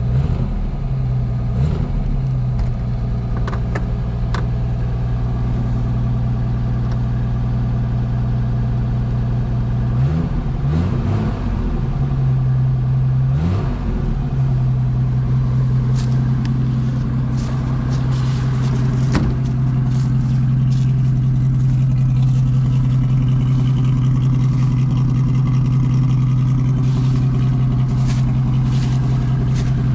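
Car engine running just after a cold start, idling steadily, with its speed rising and wavering briefly a couple of times about a third and halfway through before settling to a steady idle.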